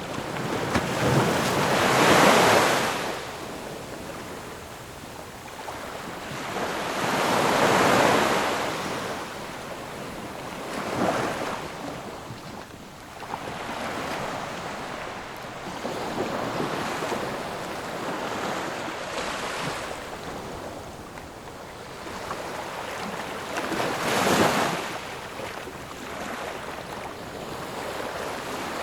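Ocean waves breaking and washing onto the shore. The loudest surges come about two seconds in, near eight seconds and near twenty-four seconds, over a steady wash of surf.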